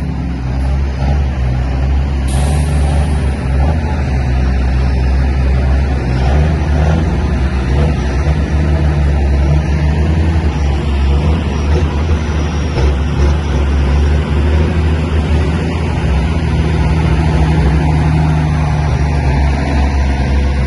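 Heavy truck engines running steadily at a low, loud rumble, with a short hiss about two seconds in.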